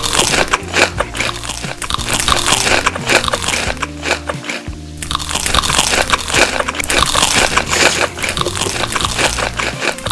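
A person biting and chewing crunchy food, with many rapid crunches and a short break about halfway. Background music with a steady bass line plays underneath.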